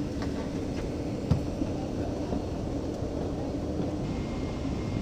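Steady low hum of an airliner cabin's air conditioning with the engines not yet started, and a single knock about a second in.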